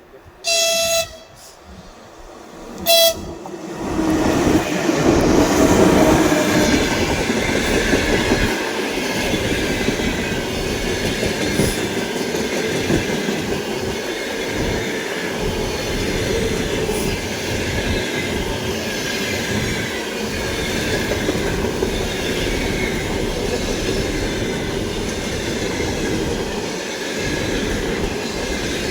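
A train gives two high-pitched horn blasts, the first just under a second long and the second short, then passes close by with a steady loud noise of wheels on the rails.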